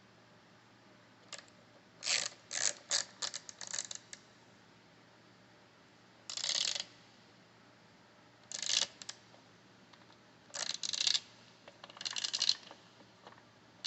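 Hand socket ratchet clicking as it is worked: a quick run of clicks, then short bursts of ratcheting about every two seconds.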